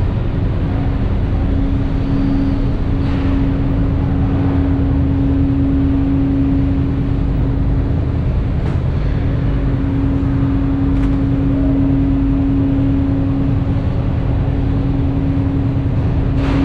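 Engine running at a steady speed: a constant drone with a steady hum over a heavy low rumble.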